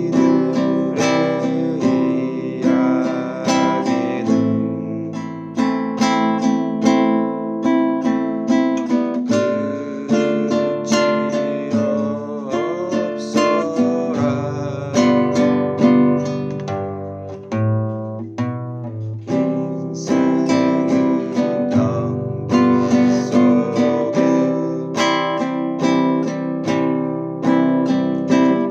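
Acoustic guitar strummed in a steady rhythmic stroke pattern, chords changing every few seconds, with an accent on the first beat of each bar.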